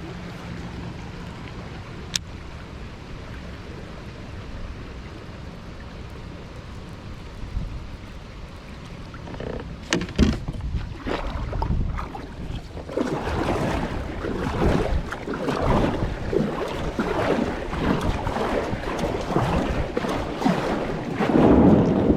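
Wind buffeting the microphone over moving creek water. It is a steady low rush at first, then turns into louder, irregular rough gusts from about halfway through.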